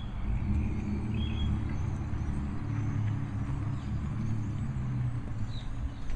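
Steady low rumble of a motor vehicle engine running, with a few short bird chirps near the start and near the end.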